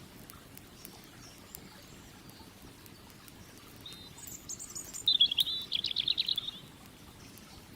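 A songbird sings one short, high, trilled phrase lasting about two and a half seconds, starting about four seconds in. Underneath is a low steady background with scattered faint clicks, the crackle of a campfire.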